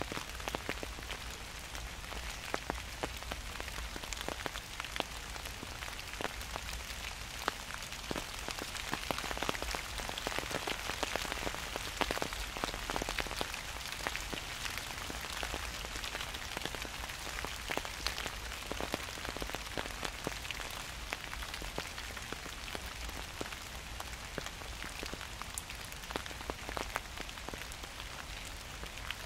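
Gentle autumn rain falling steadily, with many individual drops landing close by as sharp ticks over the even hiss of the rainfall. It grows slightly heavier around the middle.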